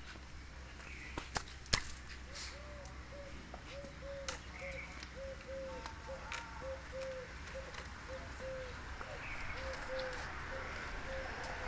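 A bird calling a long run of short, evenly spaced notes at one low pitch, about two to three a second. A few sharp clicks sound near the start.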